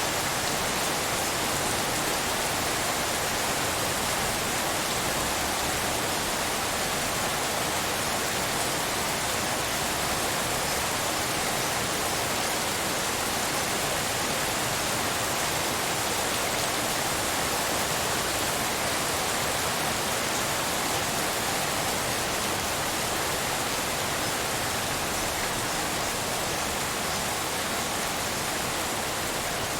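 Steady rainfall blended with pink noise, an even, unbroken hiss with no separate drops or thunder standing out.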